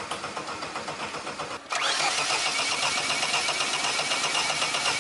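Car engine running with a rapid, even pulse. About one and a half seconds in it jumps abruptly to a louder run.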